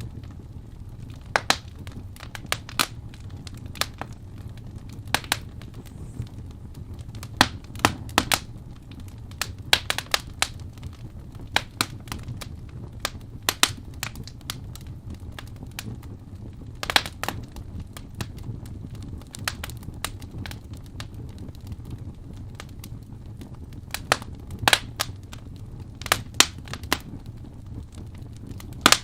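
Wood fire crackling in a fireplace: irregular sharp pops and snaps, sometimes a few in quick succession, over a steady low rumble.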